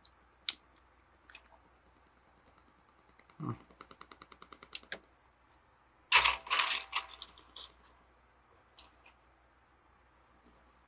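Plastic Lego bricks clicking and clattering as pieces are handled and sorted: scattered single clicks, a quick run of ticks about three and a half seconds in, and a louder clatter a little after six seconds.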